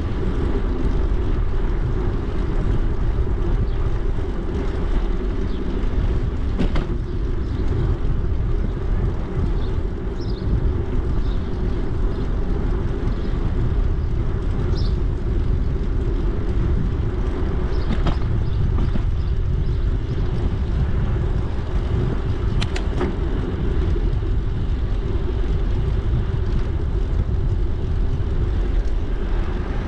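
Steady low rumble of a bicycle being ridden, tyre and wind noise on the microphone, with a few faint clicks and a couple of short high chirps.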